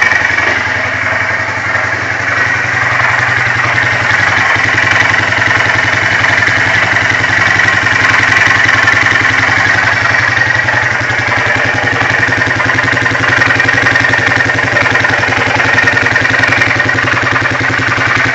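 2008 Polaris Sportsman 400 HO ATV's single-cylinder engine idling with a steady, rapid knocking rattle. The knock comes mainly at idle, and the owners cannot place it: they wonder about the drive-belt housing or bad gas, and call it a pure knocking sound.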